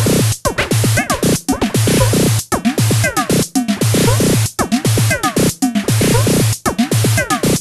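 Korg Volca Drum drum machine playing a looping electronic drum pattern: short synthesized hits, many with falling pitch sweeps, over a steady high hiss. The pattern repeats about every two seconds.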